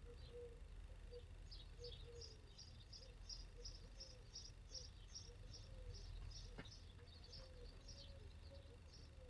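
Faint outdoor ambience: a bird chirping in a quick, even series of short high notes over a low steady rumble, with a single click about six and a half seconds in.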